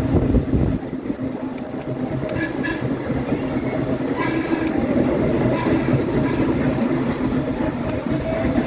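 Subway train running on the track: a steady rumble with a steady low hum and faint higher whines.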